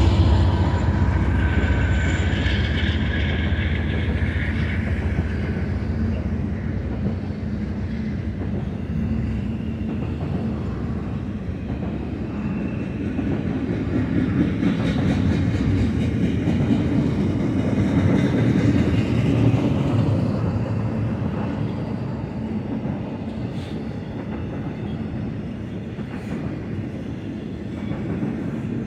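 BNSF diesel-electric locomotives in the middle of a double-stack intermodal freight train pass close by, their engine rumble fading over the first several seconds. Then the steady rolling noise and wheel clatter of double-stack container well cars going by.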